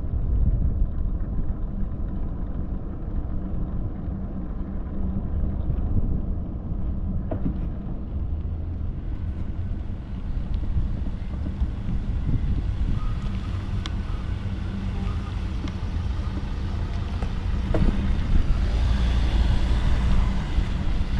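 Wind on the microphone and the steady hum of knobbly mountain-bike tyres on pavement while riding, with a hiss that grows from about halfway through.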